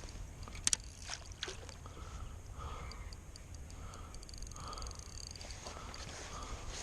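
Steady low wind-and-water rumble with a few sharp clicks and knocks in the first second and a half, typical of handling a landed fish and tackle on a kayak. From about two and a half seconds in, a bird calls repeatedly in short, evenly spaced notes.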